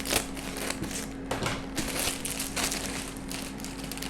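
Crinkling and rustling of packaging or wrapping being handled in irregular bursts, over a steady low hum.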